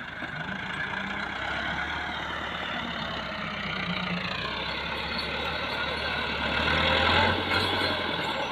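Massey Ferguson tractor's diesel engine running under varying throttle. Its pitch dips and then rises a few seconds in, and it grows loudest about seven seconds in.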